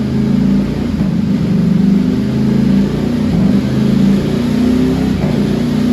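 Ducati Streetfighter V4's 1103 cc V4 engine running through a full titanium Akrapovic race exhaust, held at low, fairly steady revs with the pitch wandering slightly up and down.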